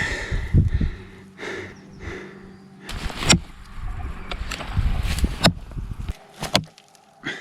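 Several sharp knocks and thuds, a few seconds apart, over a low rumble that cuts off suddenly near the end.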